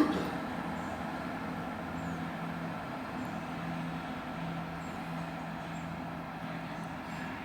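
Class 165 diesel multiple unit's underfloor diesel engines running as the train departs: a steady low engine hum that fades slightly.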